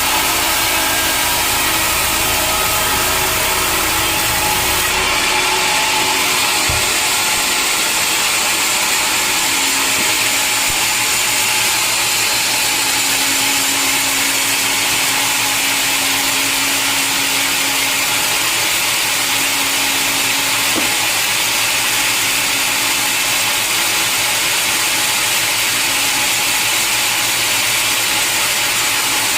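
Sawmill saw cutting through a log, a loud, steady, dense machine noise. The deep rumble underneath drops away about five seconds in.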